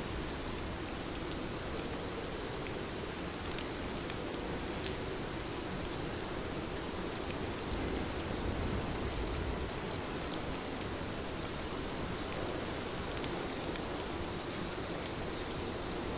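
Heavy rain falling steadily: a dense, even hiss with scattered sharp drop taps and a low rumble underneath.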